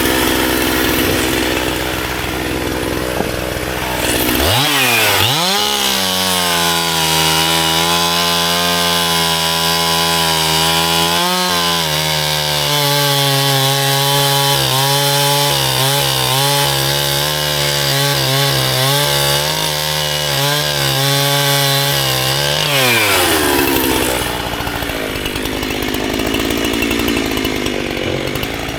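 Gas chainsaw running: about four seconds in it revs up to high speed and holds there for around eighteen seconds, its pitch wavering slightly as it works. Near the end it drops back to a lower, rougher running.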